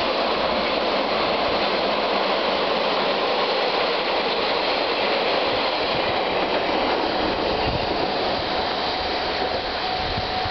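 Two-car KiHa 147 diesel railcar train running on the line, a steady noise of engine and wheels on rail that grows a little fainter toward the end.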